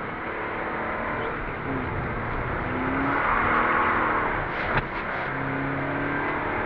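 Toyota GT86's flat-four engine heard from inside the cabin as the car drives on a wet track, its pitch rising briefly about three seconds in, then holding steady. A single short click comes near the five-second mark.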